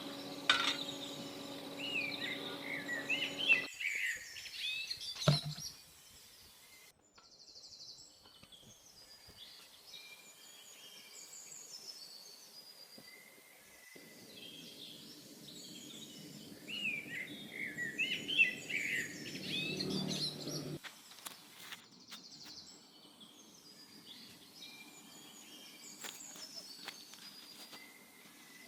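Birds chirping in short bursts of calls over a low, steady outdoor background noise.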